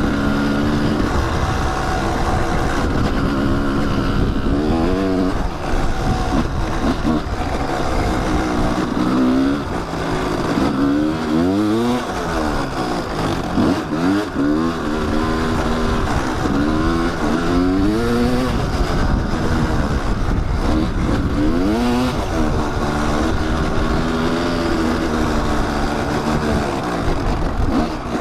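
Kawasaki dirt bike engine running under way, its revs rising and falling over and over with the throttle, most busily through the middle of the stretch.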